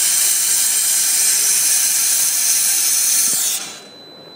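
A Gaia fresh milk coffee machine hissing loudly as its milk-system cleaning cycle forces hot water and steam through the outlet into a cup, then cutting off about three and a half seconds in.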